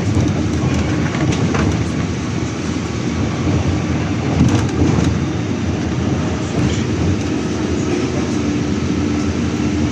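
Inside a moving city bus: steady engine and road noise, with a few short knocks and rattles.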